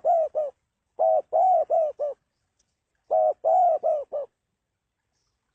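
Spotted dove cooing in repeated phrases of four or five low coos. One phrase is ending as the sound starts, then two full phrases follow about a second apart, and the dove falls silent just over four seconds in.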